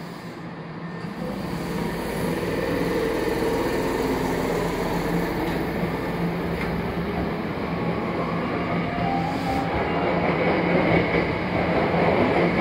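Hankyu 5300 series electric train pulling away from the platform and gathering speed, its motors and wheels on the rails getting louder from about a second in as the cars pass close by.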